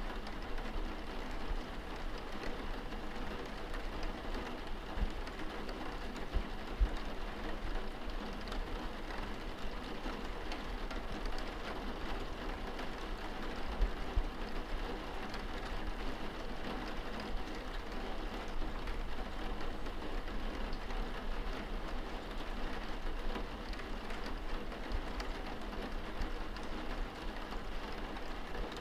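Steady rain heard from indoors, pattering on window glass, with a few faint low thumps now and then.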